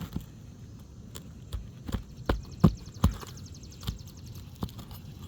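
Knocks of a hatchet and pry tool working under asphalt roof shingles to pull out a roofing nail, about six uneven strikes with a brief scraping rattle in the middle, the loudest strike about halfway through.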